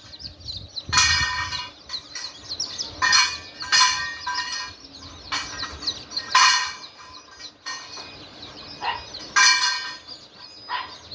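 Chickens calling: a series of loud, short, shrill calls every second or two, over a steady scatter of high, thin peeping.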